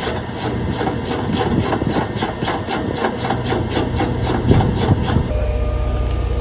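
Rapid, even mechanical clicking, about four clicks a second, over a low engine-like hum. The clicking stops about five seconds in, leaving a steady low engine or generator hum.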